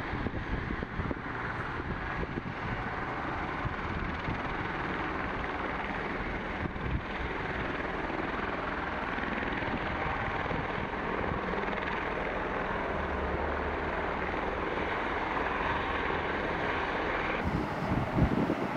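A helicopter running, a steady rush of engine and rotor noise.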